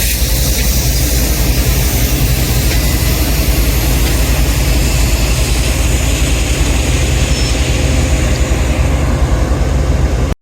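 A train passing close by: a loud, steady rumble and roar with heavy low-end noise, cutting off suddenly near the end.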